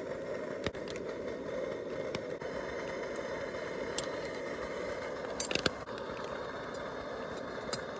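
MSR Dragonfly liquid-fuel camping stove burning with a steady roar under the stew pot, with a few sharp clicks over it, one cluster about two thirds of the way in.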